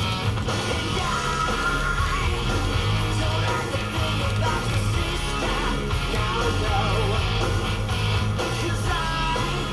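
Rock song with electric guitar and singing, playing on a car radio.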